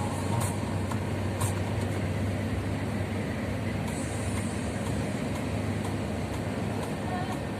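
Steady drone of a long-haul truck's engine with road noise, heard from inside the cab while driving, with a couple of faint clicks in the first second and a half.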